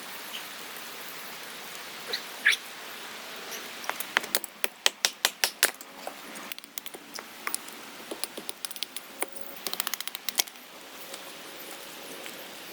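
Steady rain hissing, with two clusters of sharp clicks and taps, rapid and uneven, about four seconds in and again near ten seconds.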